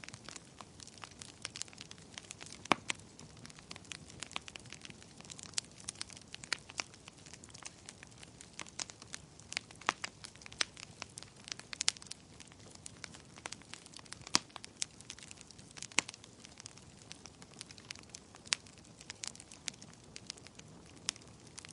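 Wood fire crackling in a fireplace: irregular sharp pops and snaps, a few louder ones, over a low steady hiss of burning.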